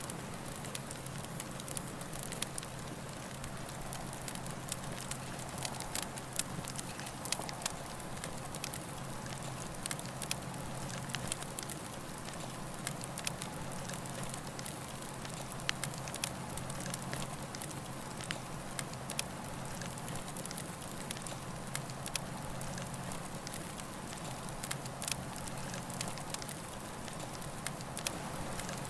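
Campfire burning, wood crackling with frequent sharp irregular pops over a steady low rush.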